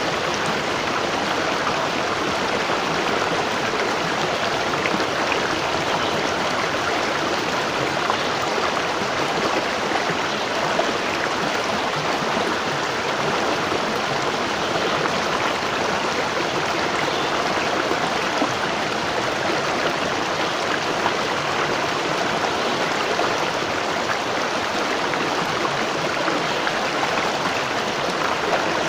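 Waterfall: water falling and rushing in a steady, unbroken noise, strongest in the middle and upper range, with no pauses or distinct events.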